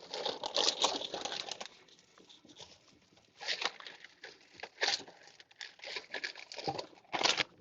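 Plastic packaging crinkling and rustling, first in a continuous stretch, then in a few short separate bursts.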